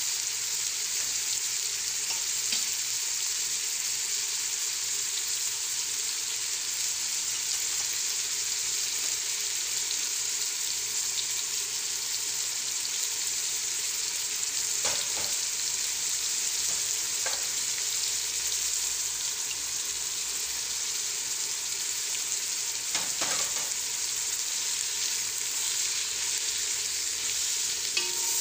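Chicken pieces, onion and herbs sizzling steadily in oil in a stone-coated cooking pot. A few light knocks sound over it partway through and again near two-thirds of the way in.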